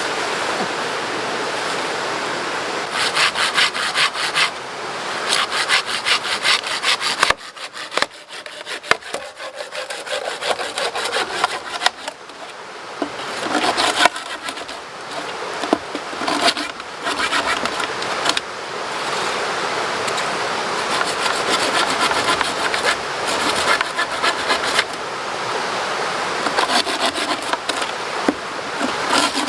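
Hand saw cutting wood in several bouts of rapid back-and-forth strokes, with a steady rush of river water underneath.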